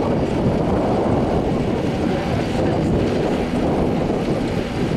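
Agusta Bell 206B helicopter in flight, its rotor and turbine making a steady din, with wind buffeting the microphone.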